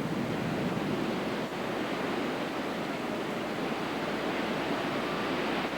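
Heavy hurricane storm surf and wind: a steady rushing noise with no distinct breaks.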